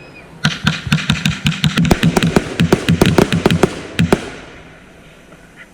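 Consumer fireworks going off in a rapid string of sharp bangs, many a second, that starts about half a second in, runs for about three and a half seconds, then dies away.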